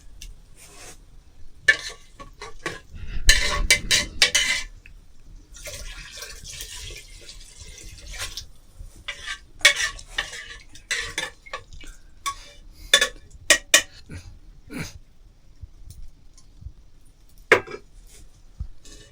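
Kitchen utensils and pots clattering and scraping: irregular sharp knocks with a couple of longer scraping stretches in the first half.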